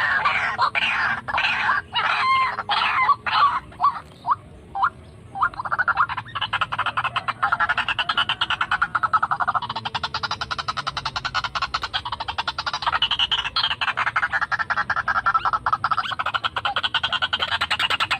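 White-breasted waterhen calls: a rapid run of croaking notes, at first spaced out with short breaks, then a dense, unbroken chatter from about six seconds in.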